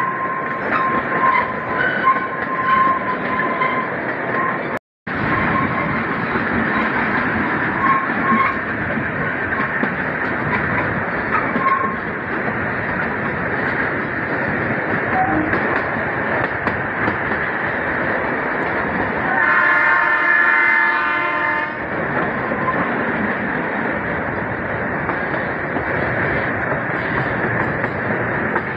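Narrow-gauge toy train running, heard from a coach: a steady rumble and rattle of the coaches, with a thin high squeal over the first few seconds. About twenty seconds in, the locomotive's horn sounds once for about two seconds.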